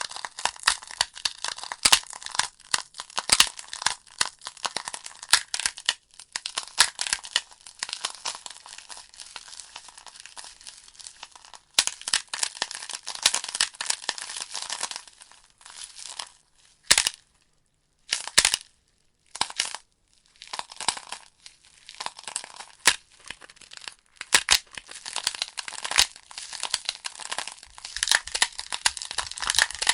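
Burning wood logs crackling and popping in a fireplace: rapid, irregular sharp pops over a soft hiss. The crackle thins out a little past halfway, going almost quiet for a couple of seconds with only a few lone pops, then picks up again.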